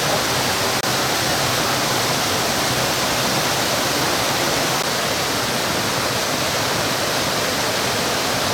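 Steady rushing of a mountain stream, a continuous hiss of flowing water with no breaks.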